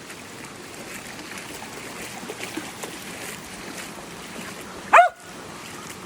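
A dog lets out a single short, loud yelp about five seconds in, over the steady rush of creek water.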